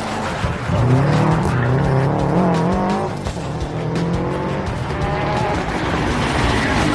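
Rally car engine running hard, its pitch rising and falling as it revs through gear changes, with tyre noise on the stage.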